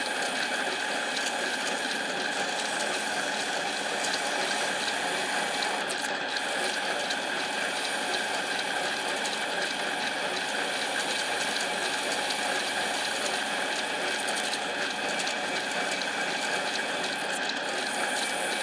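Harbor Freight mini lathe running at a steady speed, its motor and gear train making a constant whine with a fine gear chatter, while a camshaft bearing journal is polished down on it.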